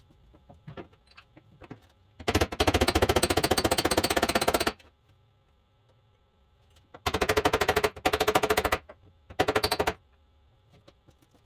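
A handheld power tool running in short bursts of rapid, even rattling: a long burst a couple of seconds in, two close together in the middle, and a brief one near the end.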